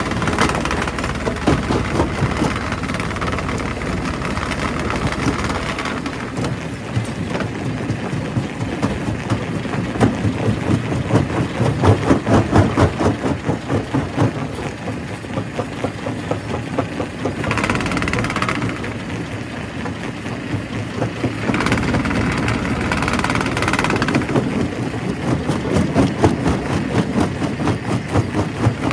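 Primary rock crusher working stone, a dense clatter of cracking and knocking over a steady engine drone, with a stretch of rapid, louder pulsing about halfway through.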